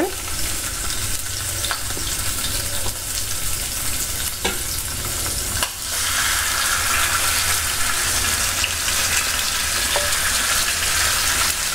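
Marinated chicken pieces shallow-frying in a little sunflower oil on a low flame: a steady sizzle with a few faint ticks, growing louder about halfway through.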